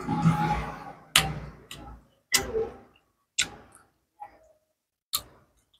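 Close-up chewing of crisp fried salted dried fish, with sharp crunches about once a second.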